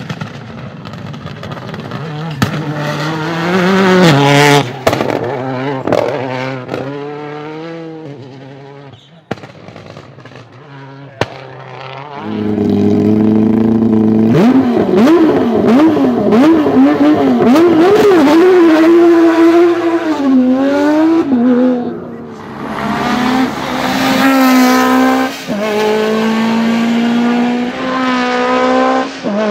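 Rally car engine revving hard, the pitch climbing and dropping through gear changes, with several sharp cracks in the first few seconds. Midway the revs swing up and down rapidly, and near the end the car accelerates through several gears, each shift a rising run cut off by a drop.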